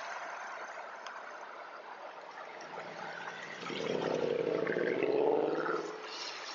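A car engine rises out of a low background hiss about halfway through, its pitch climbing a little, then fades away about two seconds later.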